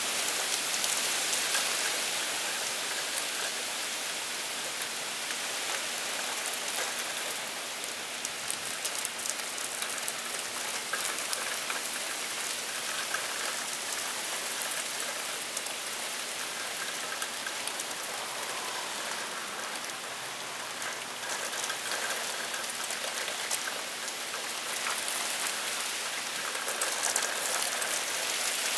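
Heavy rain in a downpour: a steady hiss of falling rain with many close drop impacts ticking through it.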